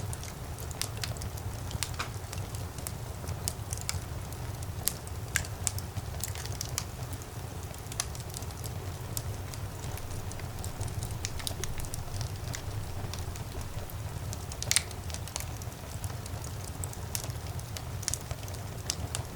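Wood fire burning in a fireplace: a steady low rumble of the flames with frequent irregular crackles and pops, one louder pop near three-quarters of the way through.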